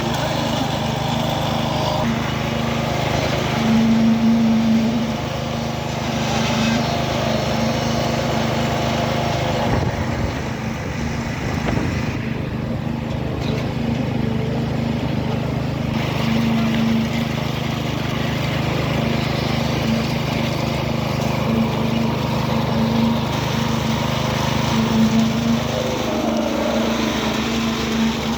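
Concrete truck's diesel engine running steadily at a constant speed, a continuous hum.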